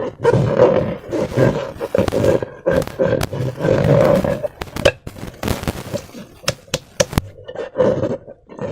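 Slime and air being squeezed through transparent rubber balloons: a run of wet squelches with a steady buzzing pitch, and a few sharp pops and clicks about five to seven seconds in.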